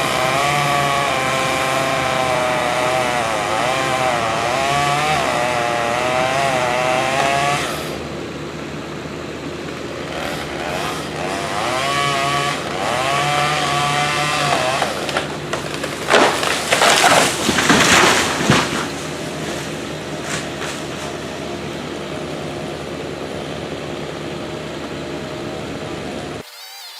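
Two-stroke chainsaw cutting wood under load, its engine pitch wavering as it bogs and recovers. About eight seconds in it drops back to a lower running note, revs hard in a few short bursts after the halfway point, then idles and stops suddenly just before the end.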